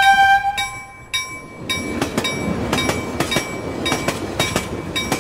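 A bell-like chime rings out and fades about a second in, then a train runs past, its wheels clattering in a quick run of clacks over the rail joints.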